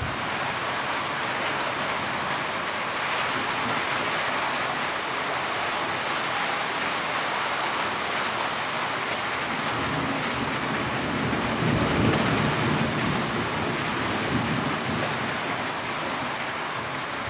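Heavy rain falling steadily in an even hiss. A low rumble swells and fades in the middle.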